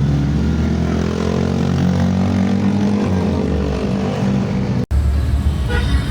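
Steady low drone of a vehicle engine and road noise. It cuts off abruptly about five seconds in, and a similar low hum follows.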